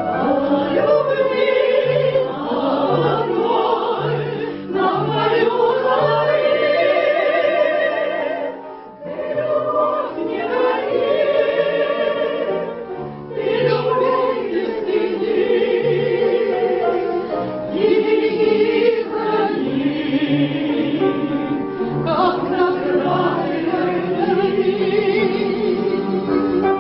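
A small group of voices singing in a classical, operatic style with strong vibrato, over a steady accompaniment of repeated low notes. There is a short break between phrases about nine seconds in.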